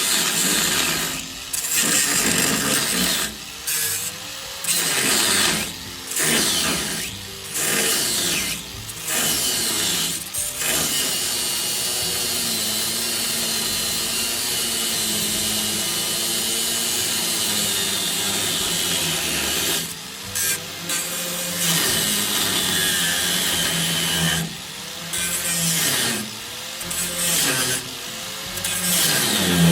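Handheld electric power tool run in short trigger bursts, its motor speeding up and winding down each time, then held on steadily for about nine seconds in the middle before the bursts start again.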